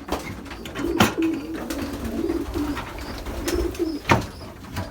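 Domestic racing pigeons cooing repeatedly in a loft, with three sharp knocks or claps: one at the start, one about a second in and one near the end.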